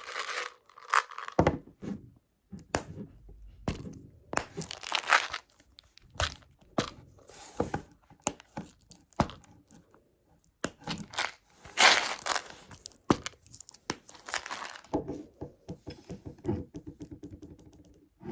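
ASMR tapping and handling of a Meiji Choco Baby snack container: irregular taps and knocks mixed with short rustling, rattling bursts, and a fast run of small clicks near the end.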